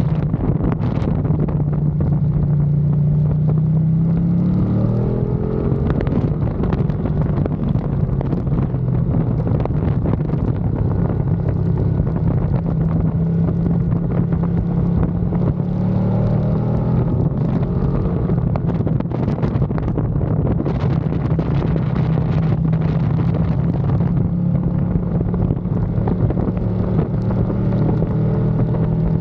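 Ducati Panigale V2's L-twin engine running hard on the track, with wind buffeting the microphone. The engine note rises in pitch a few seconds in and again about halfway through as the bike accelerates.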